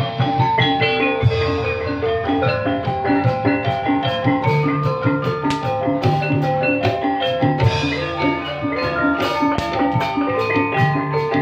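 Live ebeg gamelan-style music: struck metallophones play a fast, rhythmic, repeating melody of short ringing notes over drums.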